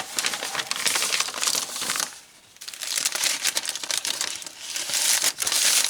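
Paper crinkling and rustling as folded paper and a paper bag in a journal are handled, in a dense run of small crackles with a short pause just after two seconds in.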